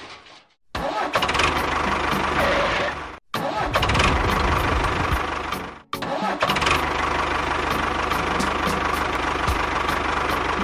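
A motor or engine running steadily, heard in three stretches broken by abrupt cuts to silence.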